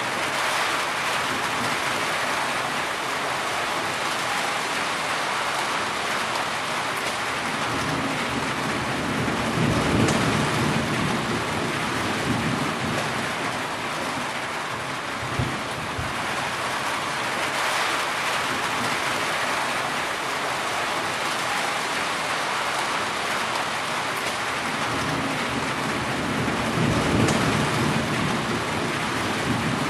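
Heavy rain falling steadily, with rolling thunder swelling up twice: once about a third of the way in and again near the end.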